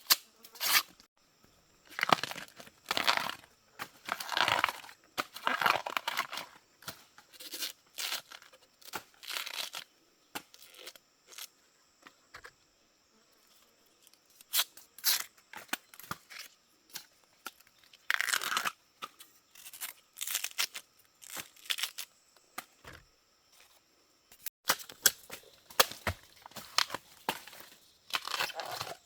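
An irregular series of tearing, crackling noises, each lasting about half a second to a second, with short pauses between them and a longer lull about halfway through.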